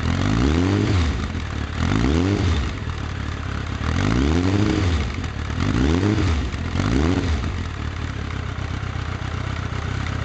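Suzuki Bandit 1200's inline-four engine revved through an aftermarket stainless steel oval midi exhaust: five quick throttle blips, each rising and falling in pitch, then settling to a steady idle for the last few seconds.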